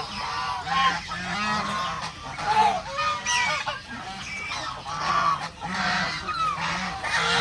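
A flock of geese honking over and over, many calls overlapping with no pause.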